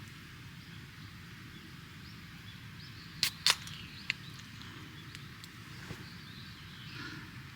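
Two sharp clicks close together, then a softer third, over steady outdoor background noise.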